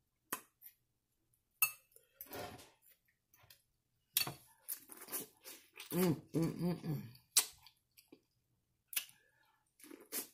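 Someone biting and chewing corn on the cob, heard as scattered wet smacks and crisp clicks. About six seconds in there is a short wordless voiced sound, like an "mmm" between bites.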